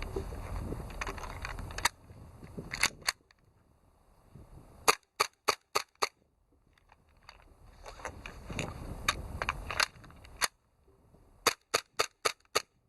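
Tokyo Marui Hi-Capa gas blowback airsoft pistol firing. A few single shots come first, then two rapid strings of about five sharp cracks each, one near the middle and one near the end.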